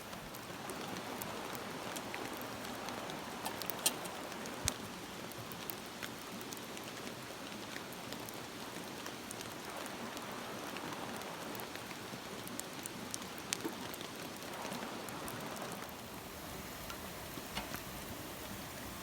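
Steady rainfall, with scattered sharp taps of single drops, two louder ones about four seconds in.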